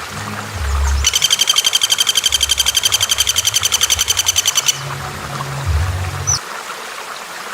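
A bird's fast, evenly spaced trill of high, sharp notes, about eleven a second, held for nearly four seconds and then stopping abruptly, followed by a single short chirp. A low rumbling noise runs underneath.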